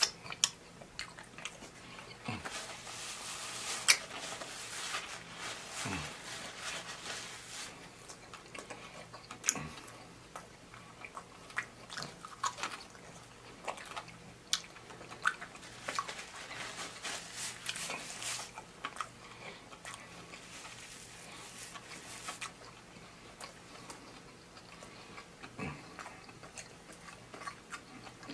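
Close-miked chewing and biting of fried chicken wings, with many short sharp clicks scattered through the eating.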